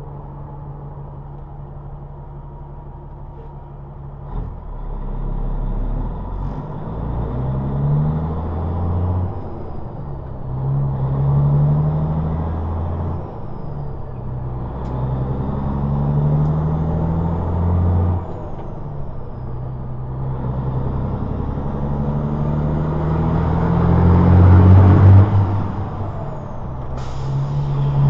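Semi-truck diesel engine pulling away and accelerating through the gears. The engine pitch climbs, falls back at each of several upshifts and climbs again, growing louder to a peak near the end.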